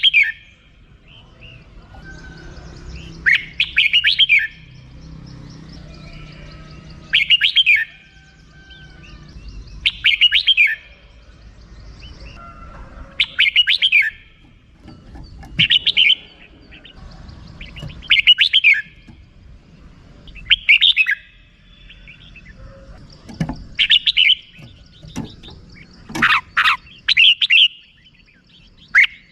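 Red-whiskered bulbul giving its rapid chattering 'rik' call in short bursts, each about a second long, coming roughly every three seconds, with a quicker run of calls near the end.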